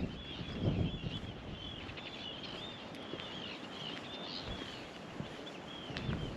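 A bird calling over and over in short, high, arched chirps, with a few footsteps near the start and end.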